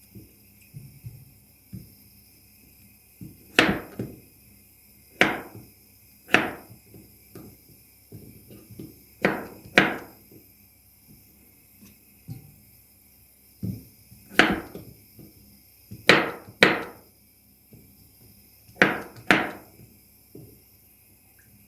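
About a dozen sharp knocks on a hard surface, irregularly spaced with quiet gaps and several coming in quick pairs, each ringing briefly before it dies away.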